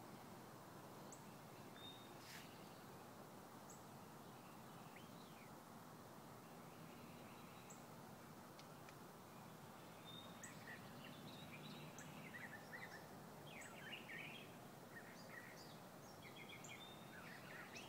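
Faint birds chirping, with short high calls scattered at first and coming more often from about ten seconds in, over a steady low hiss.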